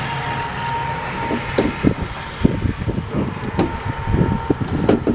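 A run of short, irregular clicks and knocks from metal parts and tools being handled inside a car door during a door handle replacement, over steady outdoor background noise.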